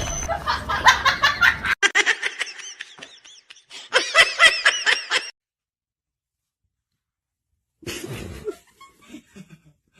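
Laughter in quick repeated bursts, high-pitched and rising and falling, that stops abruptly about five seconds in, followed by a couple of seconds of dead silence and then faint scattered sounds.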